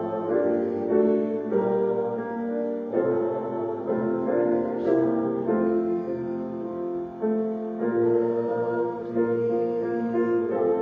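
Hymn music: piano accompaniment with a congregation singing, slow held chords changing about once a second.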